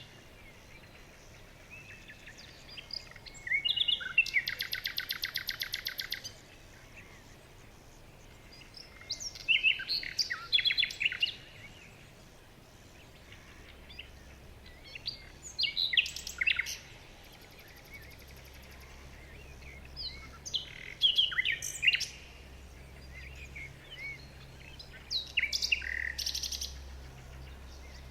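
Songbirds singing in short phrases a few seconds apart, with a rapid, loud trill about four seconds in, over a faint steady low hum.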